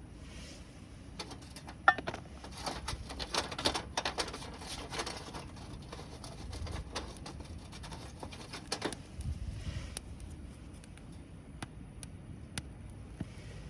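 Wood campfire crackling, with a loud snap about two seconds in and a dense run of pops over the next few seconds that thins out to occasional ticks after about nine seconds.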